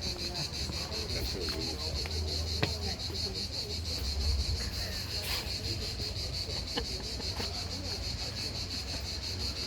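Cicadas buzzing: a continuous, fast-pulsing high-pitched drone.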